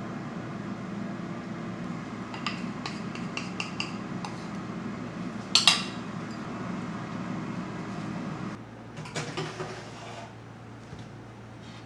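Dishes and utensils clinking and knocking, with one louder clatter near the middle, over a steady low kitchen appliance hum that cuts off about two-thirds of the way through.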